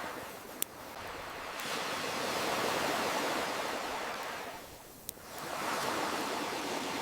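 Ocean waves washing in and ebbing away, swelling to a peak partway through and dropping back before surging again, over a bonfire that gives two sharp pops, one about half a second in and one about five seconds in.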